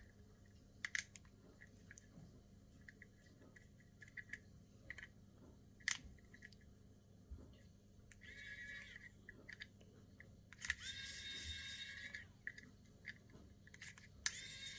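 Hand work on electrical cable with small tools: a few sharp clicks, then three short rasping, scraping noises as wire and insulation are cut and worked.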